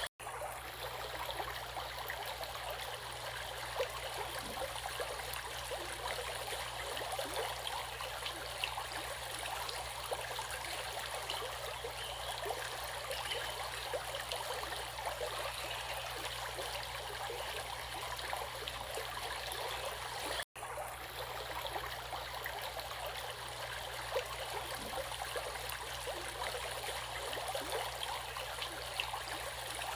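Stream water flowing and babbling steadily, with fine trickling detail and no pitched sounds. The sound drops out for an instant right at the start and again about two-thirds of the way through.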